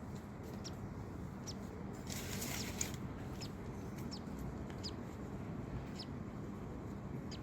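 Baby cockatiel chick, two days old, begging while the adult male cockatiel feeds it. Thin, high cheeps that drop in pitch come about once a second, with a louder raspy burst about two seconds in, over a steady low hum.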